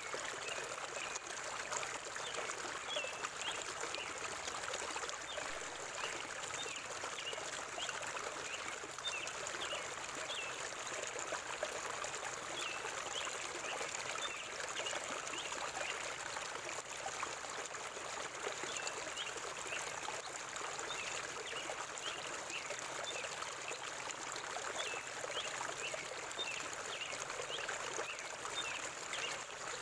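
River water flowing steadily, with birds giving short, high chirps over and over throughout.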